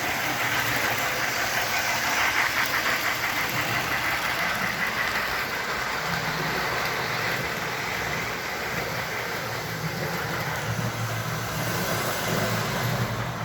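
S-gauge model steam locomotive running under power, a steady sound of motor, gears and sound-board steam effects. It is straining and not getting going, for lack of traction.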